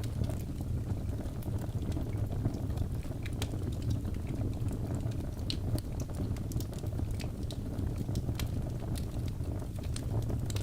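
Birch logs burning in a fireplace: a steady low rumble of flames with frequent small sharp crackles and pops scattered throughout.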